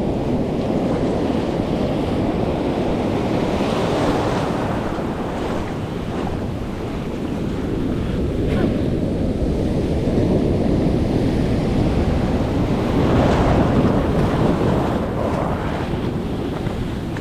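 Heavy surf breaking and whitewater rushing, with wind buffeting the microphone. The rush swells louder a few seconds in, again around the middle, and once more later on.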